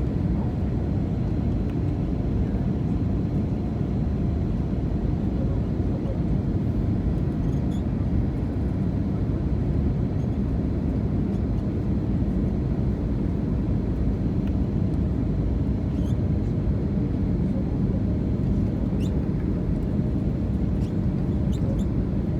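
Steady low rumble of cabin noise inside an Airbus A320neo airliner: engine and airflow noise.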